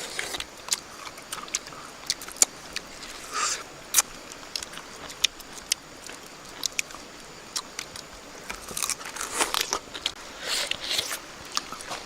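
A person eating cooked bird, biting and chewing, with many short sharp clicks and several longer noisy bursts.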